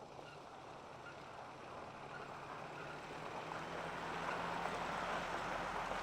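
A vehicle driving: a steady rushing road and tyre noise with a faint low engine hum, growing gradually louder.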